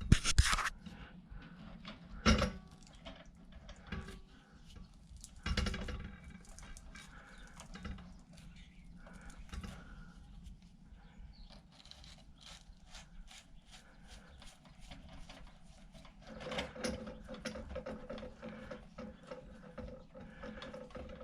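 Close handling noise from hand-wiring a light fixture: scattered small clicks, rubs and rustles of wires being twisted and worked together. There are a few louder knocks in the first six seconds.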